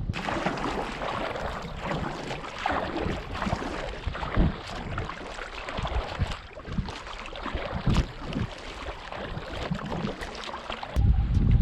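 Choppy water splashing and lapping against a kayak hull, an irregular hiss with scattered small slaps. Near the end, heavy wind rumble on the microphone takes over.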